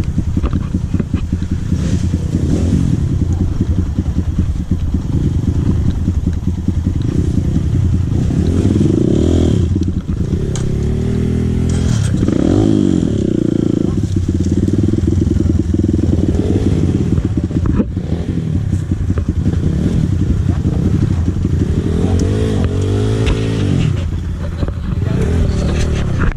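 Dirt bike engine running while riding, revving up and falling back several times; it cuts off suddenly at the end.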